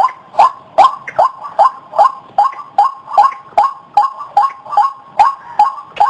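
White-breasted waterhen calling: a steady run of repeated 'ruak' notes, about two and a half a second, each dropping slightly in pitch.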